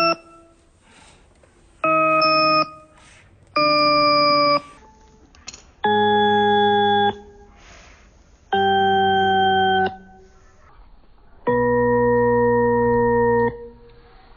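A series of five held electronic keyboard-like tones, each one to two seconds long and at a different pitch, starting and stopping abruptly with short gaps between.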